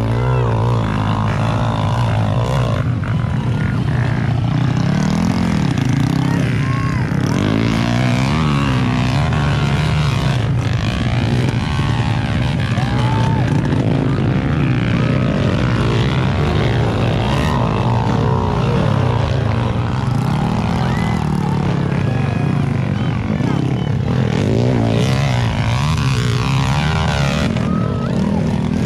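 Motocross dirt bike engines running steadily, their revs rising and falling.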